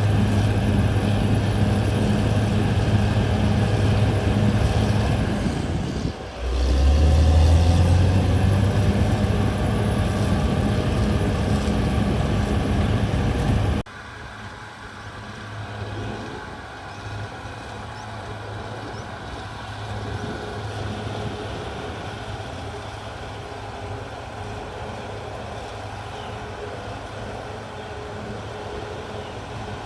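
CAT D6R XL bulldozer's diesel engine running with a deep, steady drone. About six seconds in it dips briefly, then swells louder for a couple of seconds. About halfway through it drops suddenly to a quieter drone, which holds to the end.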